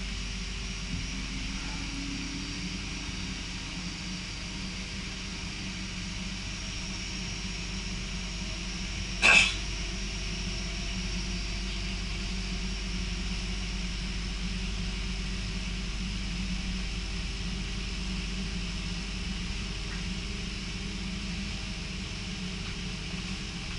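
Steady running noise inside an electric passenger train: a low rumble with faint steady high tones. One short, sharp, loud sound stands out about nine seconds in.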